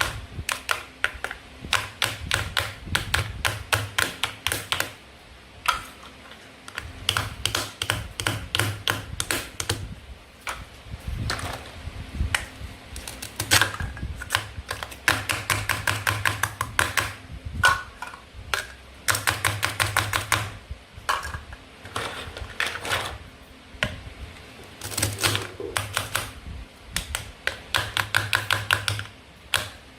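Plastic toy food and toy cutting pieces clicking and tapping in quick runs of several clicks a second, each run lasting a second or two.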